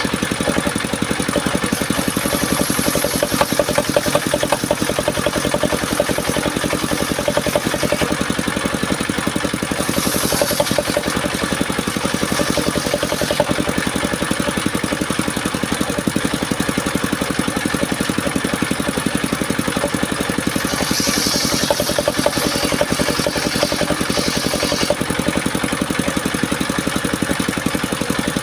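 Engine of a circular-saw sawmill running steadily with a fast, even throb. A brighter hiss comes in briefly about ten seconds in and again for a few seconds past twenty.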